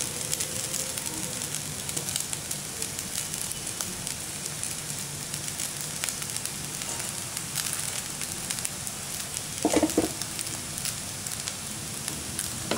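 Steady frying sizzle with faint crackles from a hot pan of spiced scrambled egg and freshly added idiyappam (rice noodles). A brief, louder pitched sound stands out about ten seconds in.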